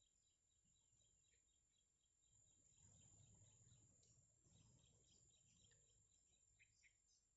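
Very faint rapid high chirping of birds over a steady high-pitched hum, with a low rumble coming up about two seconds in.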